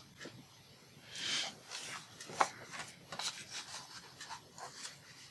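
Paper rustling and rubbing as it is handled and creased, in short irregular strokes with a few small sharp clicks, the loudest about two and a half seconds in.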